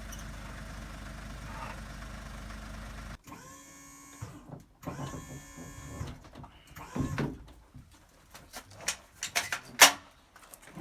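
A truck engine idling with a steady low rumble, cut off abruptly about three seconds in. After that come a wavering whine and scattered knocks and clanks of things being handled, with one sharp loud clack near the end.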